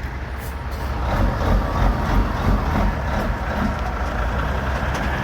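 Caterpillar 3406 inline-six diesel in a dump truck, running steadily under load as the truck pulls away, getting a little louder about a second in.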